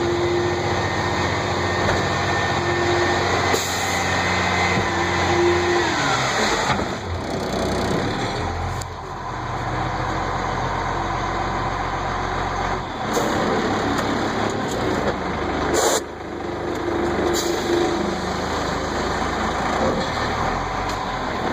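Dump truck running, with a steady whine that drops in pitch about six seconds in and returns later. A few short sharp knocks come at intervals.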